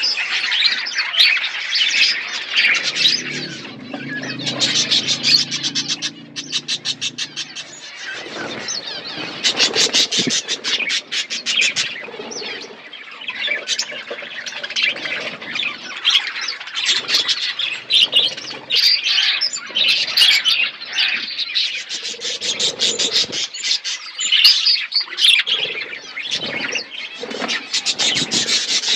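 A colony of budgies chirping and chattering together, many calls overlapping, with quick runs of rapid ticking chatter.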